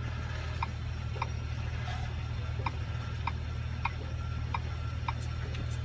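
Regular ticking, about one and a half clicks a second, over a steady low hum.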